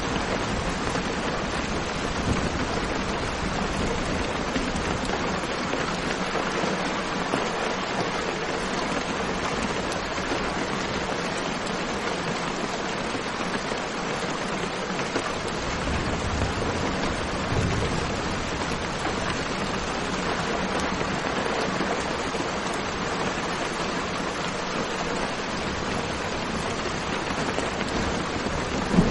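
Steady rain falling, an even hiss with no single drops standing out. A faint low rumble of distant thunder swells briefly about halfway through.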